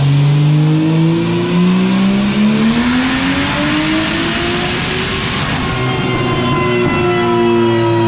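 Big-single-turbo 2JZ-GTE inline-six in a Lexus IS300 doing a full-throttle dyno pull. Engine pitch climbs steadily for about five and a half seconds, with a high whine rising alongside it early on, then holds at a steady high pitch near the end.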